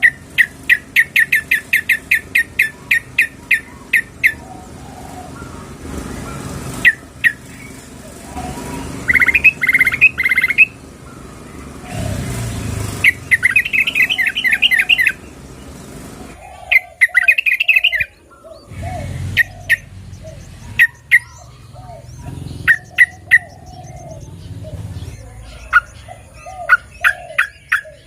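Sooty-headed bulbul (trucukan) calling: a fast run of sharp repeated notes, about four a second, then several short chattering bursts and scattered single notes. A female's call to a male, used to lure bulbuls.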